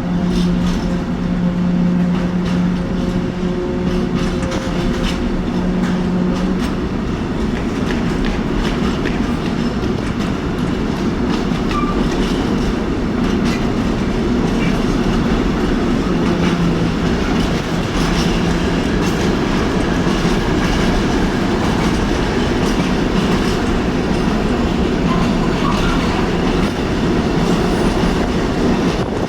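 A train running on the station tracks, a loud continuous rumble with wheels clattering over the rails. A steady hum sits over it at first and stops about six and a half seconds in.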